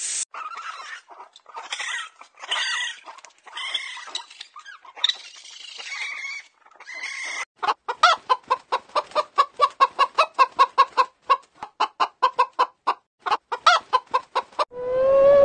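Chickens clucking and squawking: irregular harsh calls at first, then from about halfway a rapid, even run of short clucks, about five a second. Near the end a different, whining call begins.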